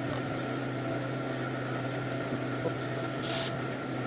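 Steady low mechanical hum with a few faint ticks, and a short hiss about three seconds in.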